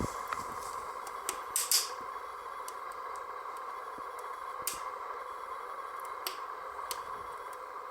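Fire burning in a homemade stove behind a glass door: a steady rushing draft with occasional sharp crackles, the loudest a quick pair about two seconds in.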